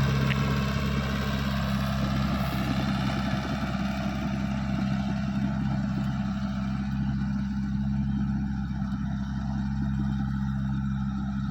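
Komatsu bulldozer's 4D92 four-cylinder diesel engine running at a steady speed.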